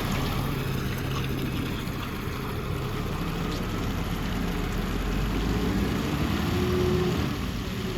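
Concrete mixer truck's diesel engine running with a steady low rumble as the truck pulls away. It grows somewhat louder about five to seven seconds in.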